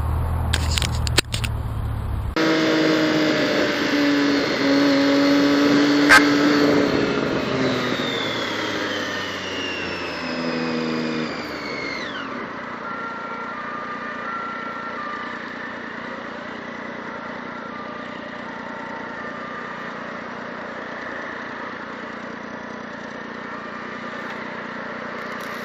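Motorcycle engine running on the move, its note holding and then falling away about twelve seconds in, leaving a steadier, quieter road noise. There is an abrupt change in the sound about two seconds in.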